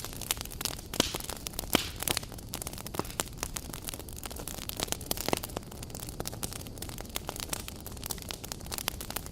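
Campfire crackling: a dense, irregular run of sharp wood pops and snaps over a low hiss, with a few louder pops.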